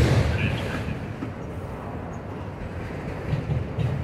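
Norfolk Southern freight train rolling past: a steady low rumble of cars on the rails, with a loud jolt at the start and a couple of louder knocks near the end.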